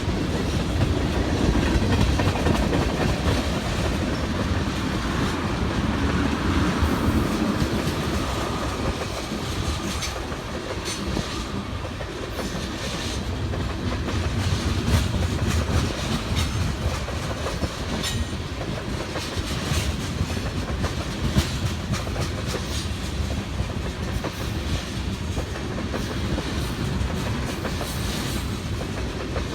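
Freight train cars rolling past with a steady rumble, the wheels clicking and clacking over the rail joints.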